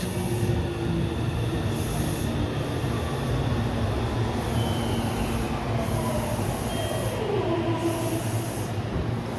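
Electric express train pulling into a station and braking: steady running noise from the wheels and motors, with a motor whine that falls in pitch past the middle as the train slows toward a stop.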